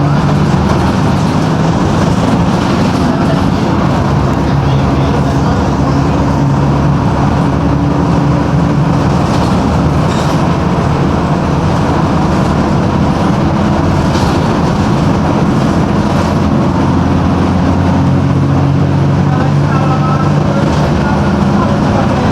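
Mercedes-Benz OM-366LA six-cylinder turbodiesel of a city bus running under way, its note shifting slightly as it drives, with a few sharp clacks.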